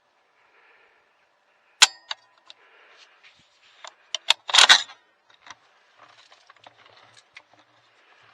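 A single sharp crack with a brief ring about two seconds in: a suppressed AR-style 350 Legend rifle firing. It is followed by scattered metallic clicks and a louder rustling burst a little past halfway, then faint rustling.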